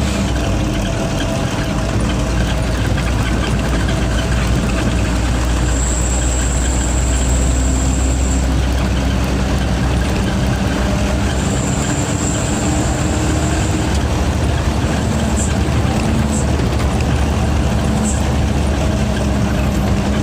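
Truck's diesel engine running steadily, a low, continuous rumble, with a thin high-pitched whistle that comes and goes a couple of times.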